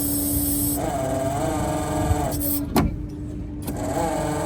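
A motor running with a steady hum and a whine that wavers in pitch, broken by a single sharp knock about three seconds in.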